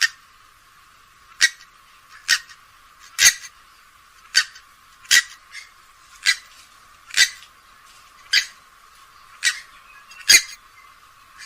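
Grey-headed swamphen giving a series of about ten short, sharp calls, roughly one a second.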